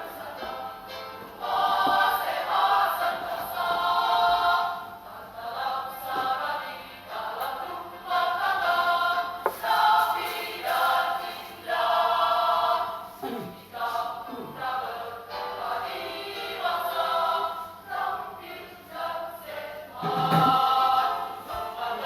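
A group of voices singing together like a choir, in phrases of a second or two.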